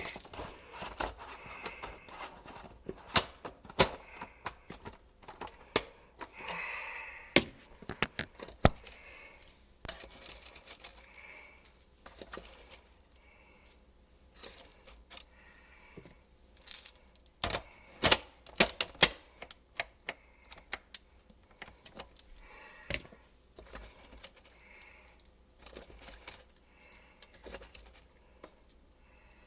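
Handling noise: scattered sharp clicks and knocks at an irregular pace, some much louder than others, with quieter fumbling between them.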